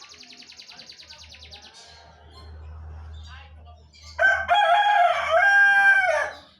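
A canary sings a fast, even trill of high notes for about two seconds, then softer twittering. About four seconds in, a rooster crows loudly for about two seconds, drowning out the canary.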